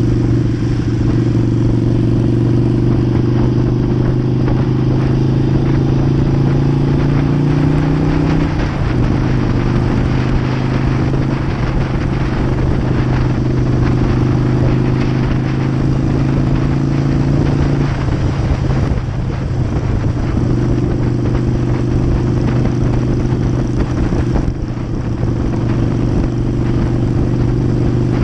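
Harley-Davidson V-twin motorcycle engine running steadily at cruising speed. The note shifts slightly about a third of the way in, eases off a little before two-thirds in, and then picks up again.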